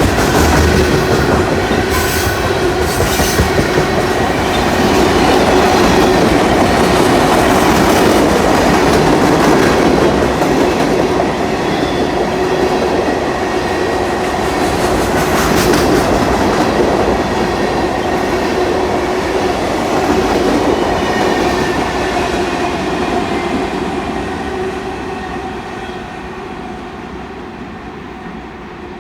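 A train passing, loud through most of the stretch and then fading away steadily over the last several seconds as it moves off.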